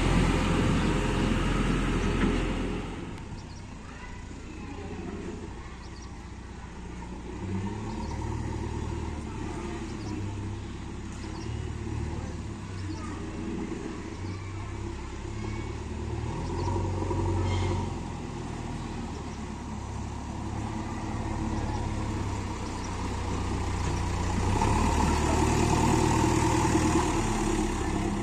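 Diesel engines of heavy machines, tractors and a JCB backhoe loader, running. The engine sound is loud and close at first, drops to a lower rumble about three seconds in that rises and falls, and grows louder again near the end.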